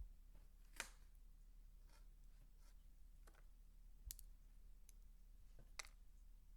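Faint, crisp clicks and crackles from dry soap being cut or crumbled by hand, about six scattered roughly a second apart over a low steady hum.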